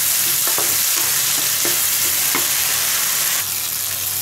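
Onions and tomatoes sizzling in hot oil in a pan as they fry soft. They are stirred, with a utensil scraping against the pan several times.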